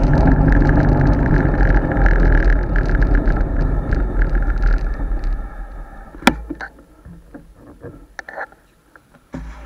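Wind and road noise on a bicycle-mounted action camera while riding, dying away after about five seconds. Then a sharp click and a few scattered small knocks and clicks.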